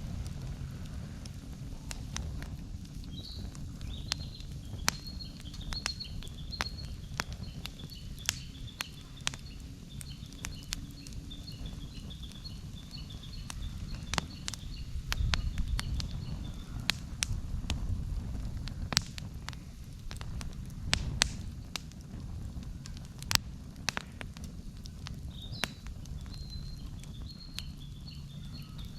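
Wood campfire crackling and popping, with sharp irregular snaps over a steady low rumble. A quick run of short high chirps sounds in the background, then again near the end.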